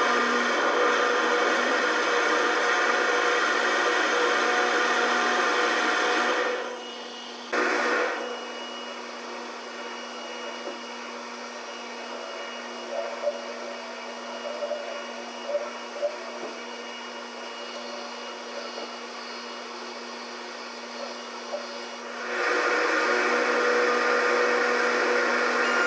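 Steady hum of the Salvia Maru ferry's machinery under a loud, even rushing noise. The rushing noise drops away after about six seconds, comes back briefly, then returns strongly near the end.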